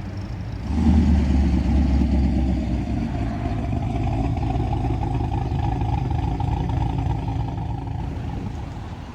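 Motor vehicle engine running close by, coming in loud with a deep rumble about a second in, then running steadily and fading toward the end.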